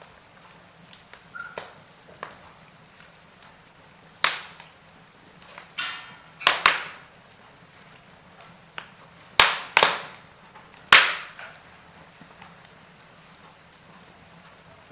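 Wood fire in a fireplace crackling, with scattered sharp pops over a low steady hiss; the loudest pops come in two clusters, about six and a half and about ten seconds in.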